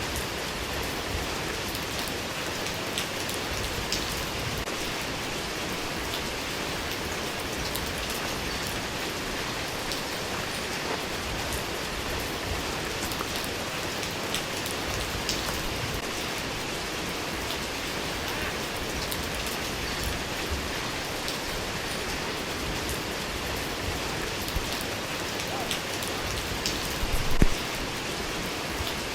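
Steady rain falling on a surface, an even hiss scattered with small drop ticks. A brief louder thump comes near the end.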